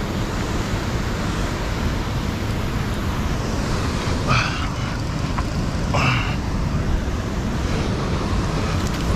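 Steady rushing noise of river water and wind on the microphone. Two short vocal sounds from the angler come about four and six seconds in.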